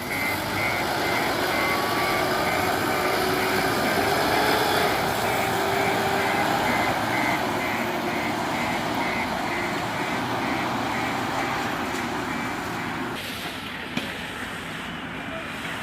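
JCB Eco Xpert 4x4 backhoe loader's diesel engine working, with its reversing alarm beeping about twice a second through the first half. About 13 seconds in, the sound drops and turns duller, and a single click follows.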